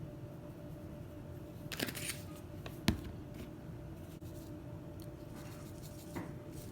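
Garlic powder shaken from a spice shaker in a short rattle about two seconds in, followed by one sharp click, over a low steady background hum.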